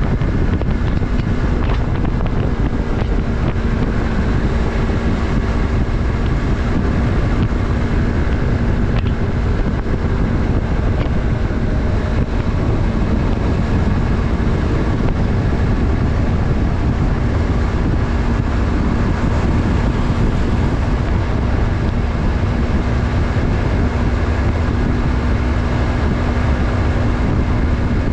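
Yamaha MT-03's 321 cc parallel-twin engine running at a steady speed while riding, with heavy wind noise rushing over the microphone.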